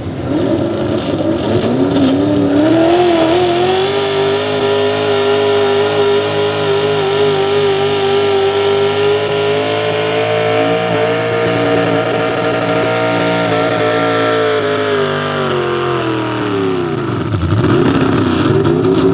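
Small-block V8 of a 4x4 pulling truck at full throttle under load. Its pitch climbs over the first few seconds, then holds high and nearly flat, leaning on the rev limiter. Late on the revs fall away sharply, then pick up again briefly near the end.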